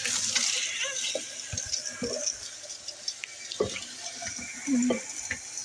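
Water running from a tap into a cup, a steady hiss, with a few small knocks.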